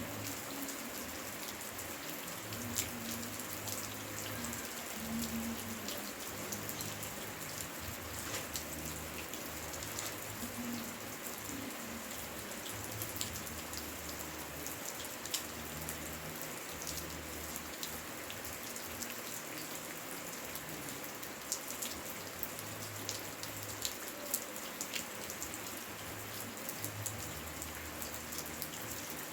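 Steady rain falling, with many single drops striking close by as sharp, irregular ticks.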